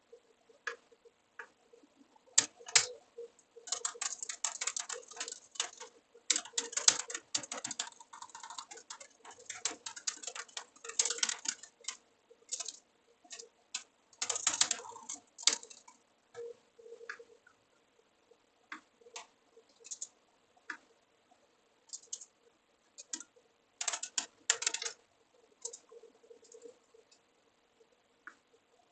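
Computer keyboard typing in quick runs of keystrokes with pauses between, and scattered single key clicks in the gaps.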